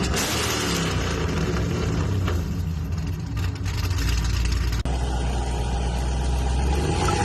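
Chevrolet SS sedan's V8 exhaust, revving and running. About five seconds in it cuts abruptly to a steadier low drone.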